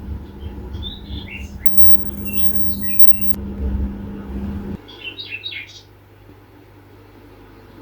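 Small birds chirping in short bursts of quick high notes over a steady low hum and rumble; the hum cuts off abruptly a little over halfway through, leaving the chirps over quieter background, with a brief hiss in the middle.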